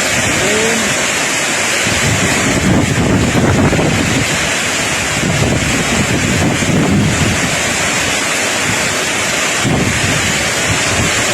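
Strong storm wind buffeting the microphone over heavy rain, a loud steady rush of noise.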